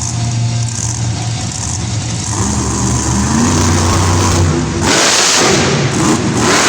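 Monster truck engine running in an arena, its pitch climbing in steps as it revs up, then a louder rushing noise from about five seconds in.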